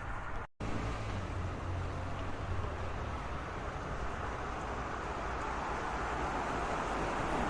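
Road traffic: a steady rush of vehicles with a low engine rumble, and one vehicle growing louder toward the end. The sound cuts out completely for a split second about half a second in.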